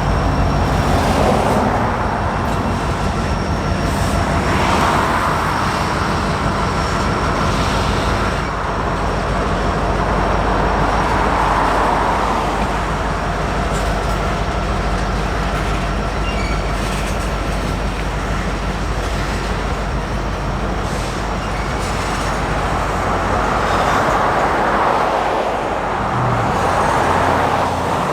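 Empty oil train of BNSF tank cars rolling past, its wheels on the rail making a steady rumble with noise that swells and fades every few seconds.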